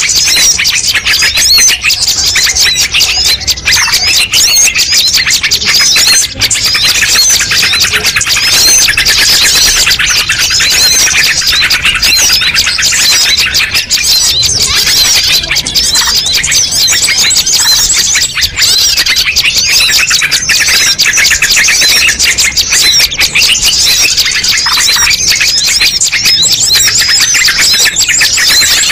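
A dense, continuous chorus of many small songbirds chirping and twittering over one another, played loud without a break: a mixed-species bird-lure (pikat) recording.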